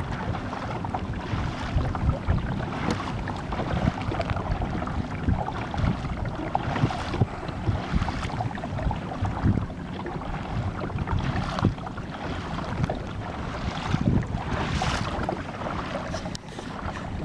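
Water rushing and splashing along a moving kayak, with a splash swelling every few seconds, over heavy wind buffeting the microphone.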